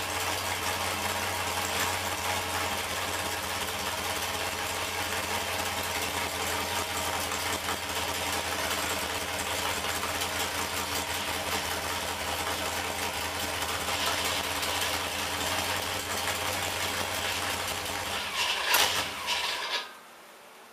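A 496 cubic-inch big-block Chevy V8 with a solid roller cam running at a steady speed on an engine dyno. Near the end it gives a brief louder burst, then stops abruptly, leaving only a faint hiss.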